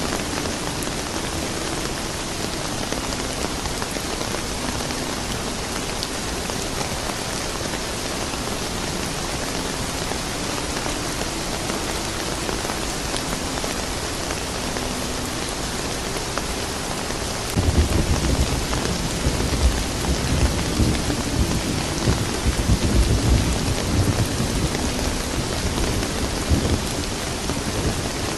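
Steady rain falling. A little past halfway through, a long low rumble of thunder rolls in and continues almost to the end.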